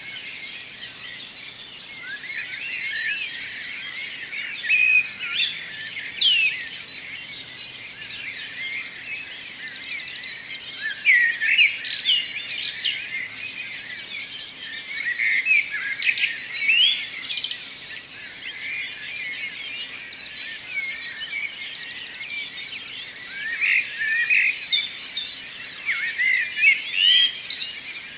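Morning chorus of many songbirds, their chirps, trills and whistles overlapping without a break. Louder bursts of song stand out now and then, over a soft steady background hiss.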